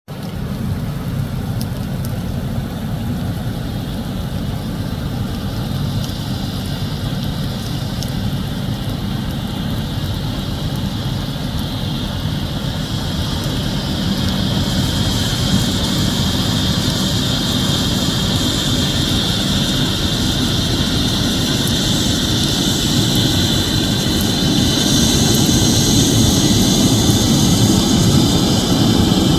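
Kenya Airways jet airliner's engines and rushing air during landing, a steady noise that grows louder about halfway through and again near the end.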